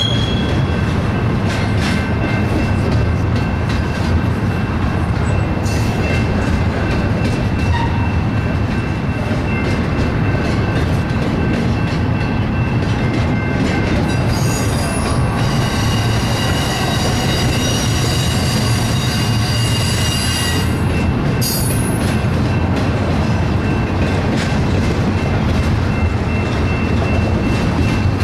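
Double-stack container train's well cars rolling past: steady rumble and clatter of wheels on rail, with a thin squeal throughout. About halfway through, the wheels squeal louder and higher for about six seconds, then it eases back.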